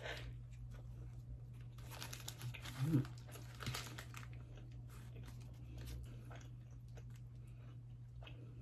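Close-miked chewing of a McDonald's sausage, egg, cheese and bacon breakfast roll, with a louder crunchy, rustling stretch about two to four seconds in. A steady low hum runs underneath.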